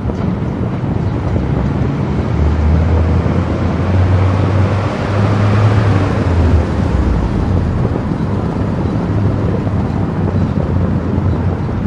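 Car driving at highway speed: steady tyre and wind noise with a low engine hum, swelling briefly around the middle.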